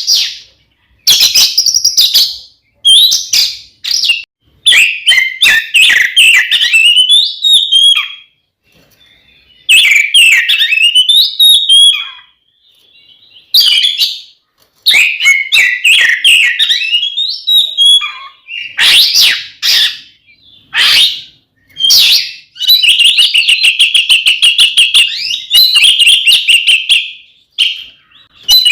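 Oriental magpie-robin (kacer) singing loudly in agitated, fighting-mode song: bursts of fast, varied phrases with short pauses between them. In the last few seconds the phrases give way to a long run of rapidly repeated notes.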